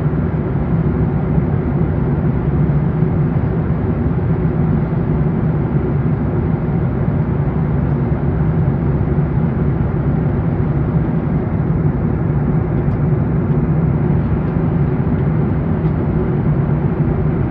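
Steady in-flight cabin drone of a Boeing 737 MAX 8 airliner: engine and airflow noise with a constant low hum.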